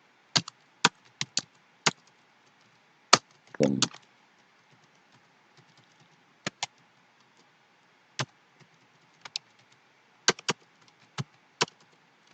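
Computer keyboard being typed on slowly and irregularly: single keystrokes and short runs of two or three, separated by pauses of a second or more. A brief, low, fuller sound comes about three and a half seconds in.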